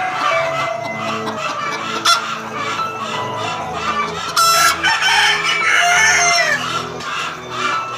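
Free-range village chickens clucking, with a rooster crowing.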